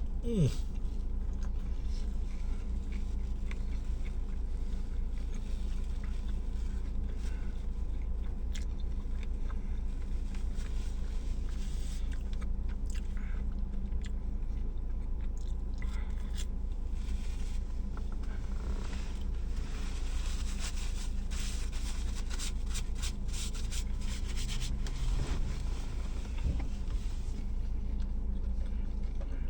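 A person chewing and biting into a steak sub sandwich, with crackling and scraping of its paper wrapper, over a steady low hum.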